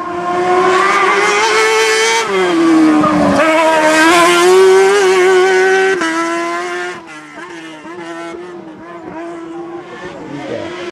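Hillclimb race car engine at full throttle, its pitch climbing through the gears with a brief dip at a gear change. About seven seconds in it drops away and runs on more faintly as the car moves off up the course.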